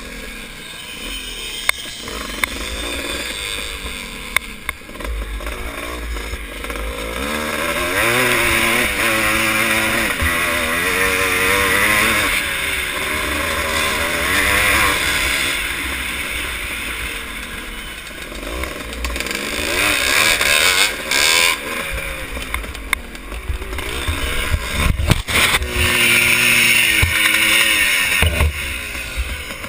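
Vintage motocross motorcycles racing, their engines repeatedly revving up and easing off as they go round the track. The revs rise and fall throughout, with two louder stretches of hard acceleration and a few sharp knocks.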